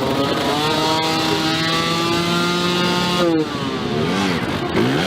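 Dirt bike engine at high revs, its pitch climbing steadily for about three seconds, then dropping sharply. It follows with two quick swoops up and down near the end.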